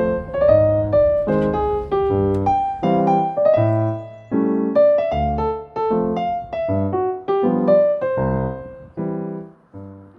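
Background piano music: a gentle melody of struck notes over low chords, ending as the last notes fade out.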